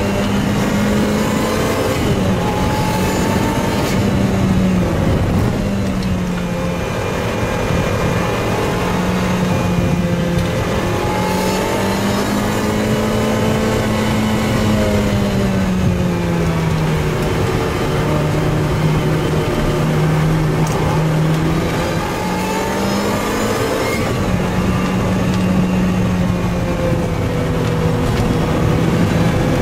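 Lotus Exige S2 Cup 260's supercharged four-cylinder engine heard from inside the cabin under hard track driving, its note rising and falling and stepping down at several gear changes.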